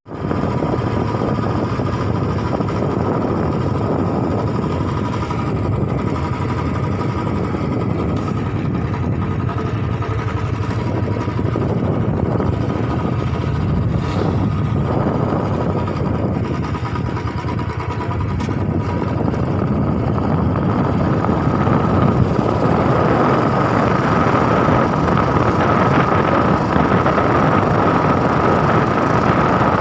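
An engine running steadily with a constant whine over dense mechanical noise. It starts suddenly and grows a little louder about twenty seconds in.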